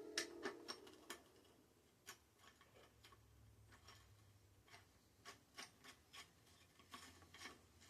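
Faint, irregular clicks and light taps of hand tools working on a bicycle during disassembly.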